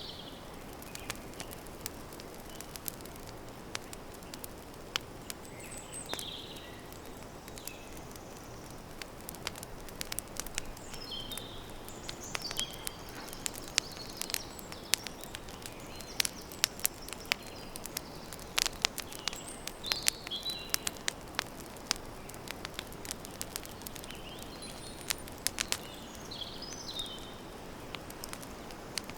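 Campfire crackling and popping in sharp, irregular snaps, thickest in the middle, over a low steady hiss. Birds chirp briefly now and then in the background.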